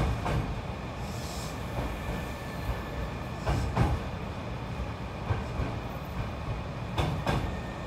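Hankyu electric train running with a steady low rumble, its wheels knocking over rail joints and points at uneven intervals. A brief high wheel squeal comes about a second in.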